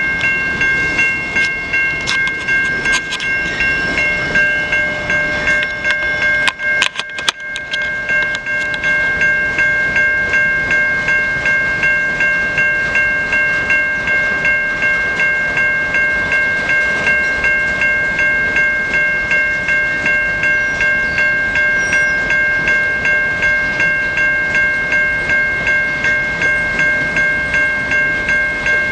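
Railroad grade-crossing bell on the cantilever signal ringing steadily at about two strikes a second, over the rumble of a CN freight train rolling through the crossing.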